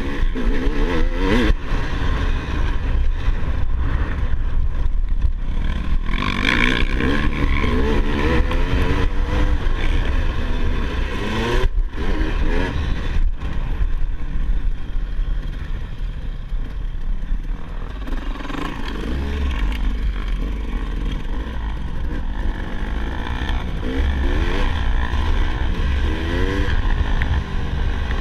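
Dirt bike engine running, its pitch rising and falling again and again as the throttle is opened and closed, over a steady low rumble.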